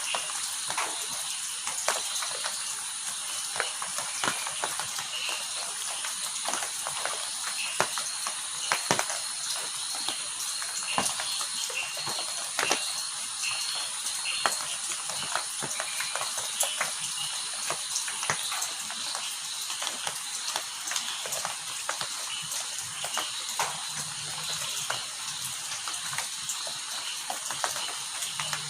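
Heavy rain falling: a steady hiss with many sharp drop hits scattered through it.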